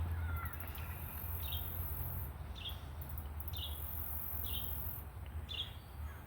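Outdoor insect and bird sounds: a short chirp repeating about once a second, with a very high insect buzz that starts, stops and starts again, over a low wind rumble.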